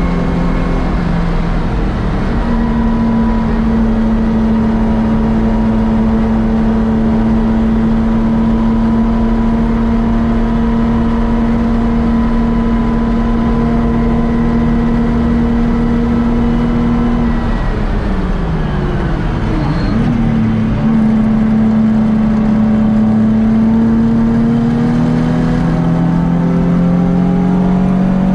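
Modified Nissan 350Z's 3.5-litre V6, with headers and a sport exhaust, heard from inside the cabin running hard at a steady high pitch. About two thirds through the revs drop sharply as the car slows, come straight back up, and then climb steadily as it accelerates again.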